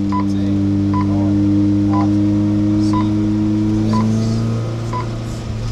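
The four-cylinder engine of a 107 PS VW Golf 2 GTI race car runs at steady revs, heard from inside the cabin. A short electronic beep sounds once a second over it.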